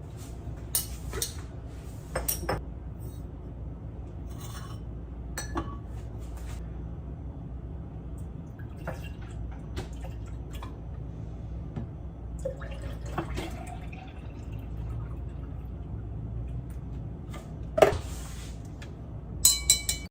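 Scattered clinks and knocks of a drinking glass being handled, with small liquid sounds, over a low steady hum; the loudest clinks come near the end.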